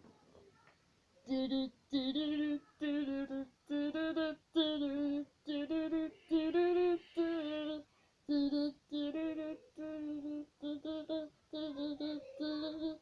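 A child singing a string of about a dozen short, repeated wordless notes, nearly all on one pitch, starting about a second in. It is a vocal imitation of a singing monster's part, performed with a hand puppet.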